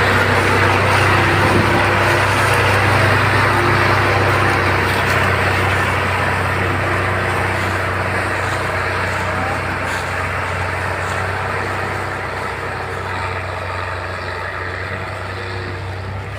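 Tractor engines running steadily as two tractors pull a heavily loaded sugarcane trolley, the sound fading slowly as they draw away.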